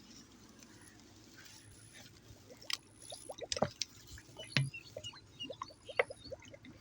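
A bottle being filled with water from a running irrigation channel, gurgling as air bubbles out of it in quick irregular blips over the steady low rush of the flowing water.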